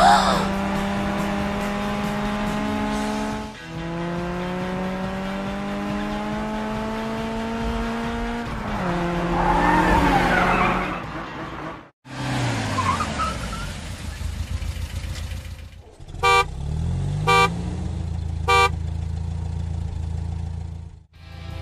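Car sound effects: an engine revving with its pitch climbing steadily, a screech, then the engine winding down. Three short horn honks follow over a steady low engine hum.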